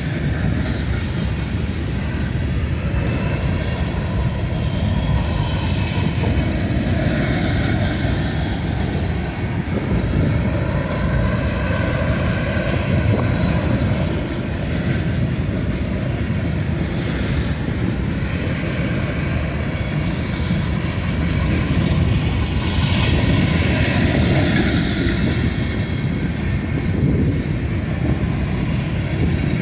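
Freight train rolling past: a steady, loud running noise of wheels on rails, with a brief higher, hissier stretch about three-quarters of the way through.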